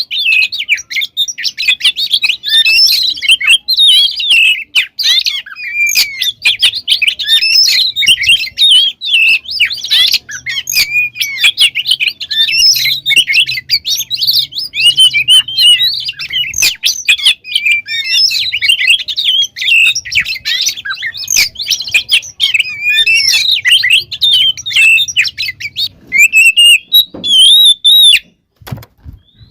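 Oriental magpie-robin (kacer) singing loudly and vigorously: a fast, unbroken run of varied quick phrases. Near the end it breaks into a few separate longer notes with a short pause.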